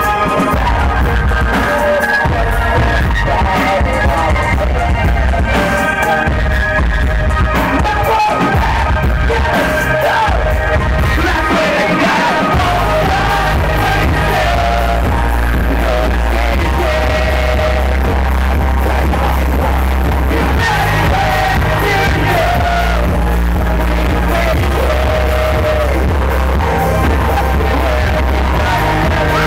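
Live electronic rock band playing loud, with sung and shouted vocals over the band. A heavy, steady bass comes in about twelve seconds in and holds to the end.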